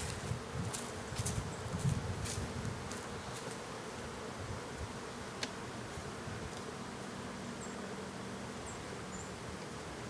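Honeybees buzzing in a steady hum around their opened hive, stirred up by the disturbance. There are a few knocks from handling the hive in the first couple of seconds and one sharp click about five and a half seconds in.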